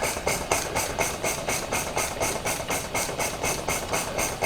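Two small model steam engines running together on live steam, with a rapid, even beat of exhaust chuffs, about seven or eight a second, over a steady steam hiss.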